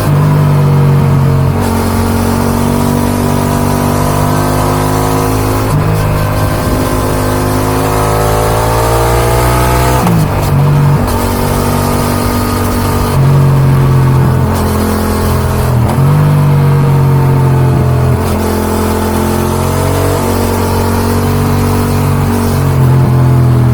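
Yamaha XSR 700's 689 cc CP2 parallel-twin engine through an Akrapovic dual exhaust, on the move: the revs climb and drop repeatedly as the rider accelerates, shifts gear several times and rolls off the throttle.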